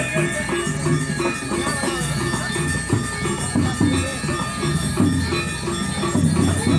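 Balinese gamelan music with a steady, quick repeated metallic beat over dense percussion.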